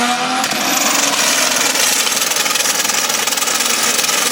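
Car engine revved up hard and held at high revs, a loud, harsh, steady rasp after the last of the rising pitch about half a second in.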